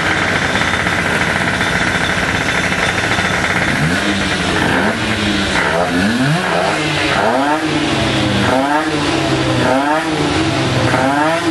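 Racing motorcycle engine warming up: running steadily at first, then from about four seconds in, a series of quick throttle blips, roughly one a second, each rising and falling in pitch.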